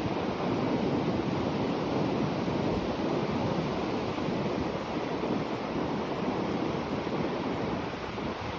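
Sea waves breaking and washing on the shore in a steady surf roar that swells slightly about half a second in, with some wind on the microphone.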